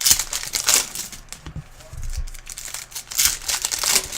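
Plastic trading-card wrapping crinkling and tearing as it is opened by hand, in several bursts.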